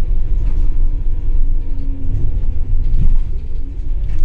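Scania K280UB city bus running, the low rumble of its 280 hp Scania DC9 five-cylinder diesel engine steady throughout, with a slight change in pitch about two to three seconds in.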